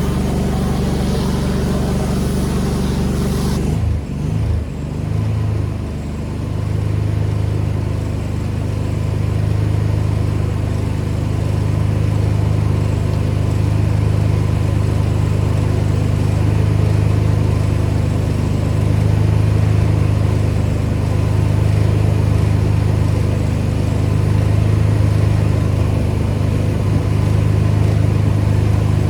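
Petrol engine of a pressure washer running. A high spray hiss stops about four seconds in, the engine note wavers briefly, then it settles to a steady lower run, as when the spray gun's trigger is released and the pump stops spraying.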